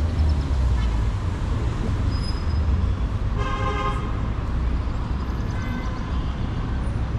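City street traffic with a steady low engine rumble; a vehicle horn sounds once, briefly, a little over three seconds in.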